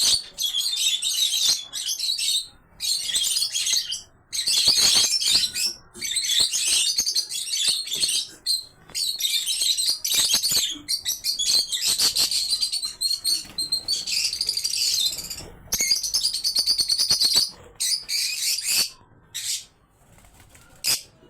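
Many small birds chirping at once, in dense bursts of a second or two with short pauses, dying down near the end.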